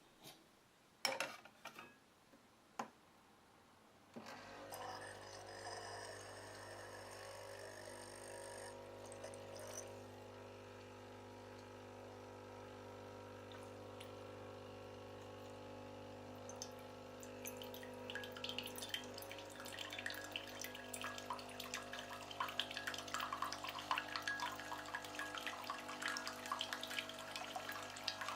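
Bosch Tassimo Vivy capsule coffee machine brewing: a few clicks, then about four seconds in its pump starts a steady hum, and past halfway hot liquid starts spattering and trickling into the cup over the hum.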